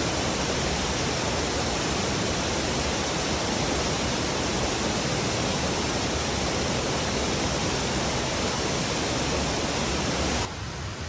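Steady, loud rush of falling water, an even hiss across all pitches, that drops off suddenly to a quieter level near the end.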